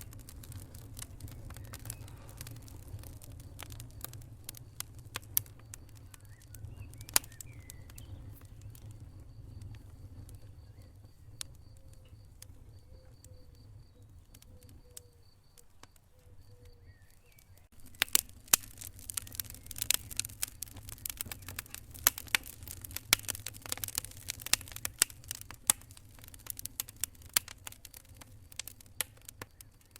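Wood fire burning in a fireplace: irregular crackles and pops over a low steady rumble of the flames. The crackling thins out for a while, then turns much denser and louder a little past halfway.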